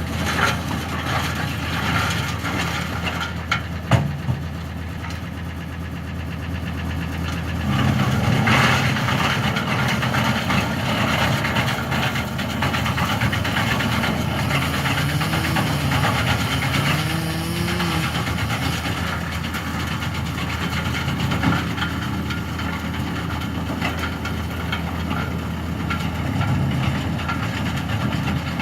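Tym compact tractor's engine running a tractor-driven wood chipper. About 8 s in the sound grows louder and rougher, and in the middle the engine note sags and recovers, as it does under the chipper's load.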